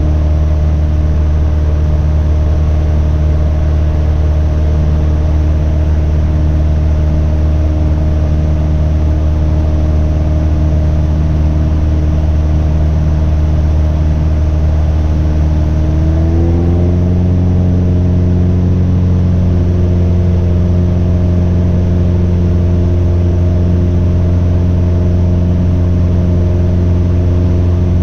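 Cessna Cardinal RG's four-cylinder Lycoming engine and propeller droning steadily in flight. About two-thirds of the way through, the pitch rises quickly and then holds steady at the higher pitch, as the engine/propeller speed is increased.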